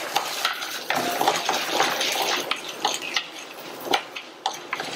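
Urad dal sizzling as it fries in hot oil in a stainless steel pan, with a wooden spoon scraping and tapping against the pan now and then as it is stirred.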